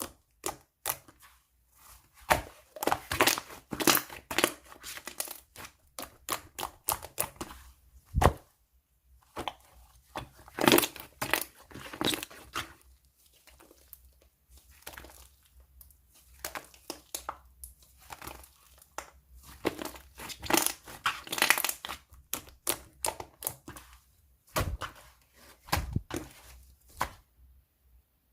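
Toffee slime being worked by hand: pulled, pressed and squished. It gives irregular bursts of quick sticky clicks and pops, with short pauses between.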